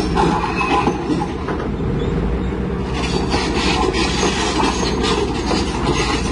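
Heavy truck on the move, heard from inside the cab: a steady low engine and road rumble with loose rattling and clattering over it.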